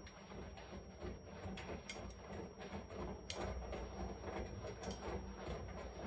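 Washing machine running: a low rumble with frequent irregular clicks and knocks from the tumbling load.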